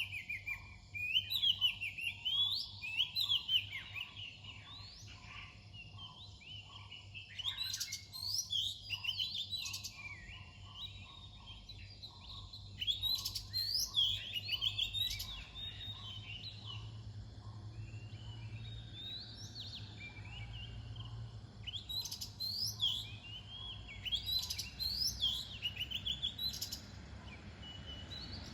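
Oriental magpie-robin singing: a varied run of clear whistled notes and slurred phrases, coming in spells of a few seconds with short pauses between.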